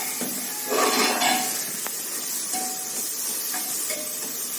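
Onion, tomato and chilli-powder masala sizzling in oil in a cooker pot as it is stirred with a spoon, with a louder scrape about a second in and a single click a little later.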